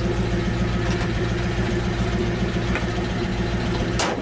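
A car engine idling steadily close by, with a sharp click near the end.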